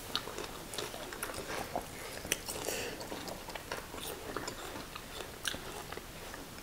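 Two people eating by hand, chewing mouthfuls of banku and fried tilapia, with irregular small clicks and smacks of the mouth.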